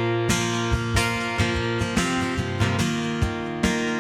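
Worship band playing an instrumental gap between sung lines: strummed acoustic guitar over sustained chords, with a steady beat.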